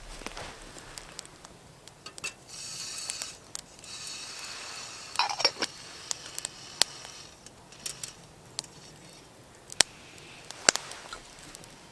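Scattered sharp clicks and brief hissing, with a short scrape of handled gear about five seconds in.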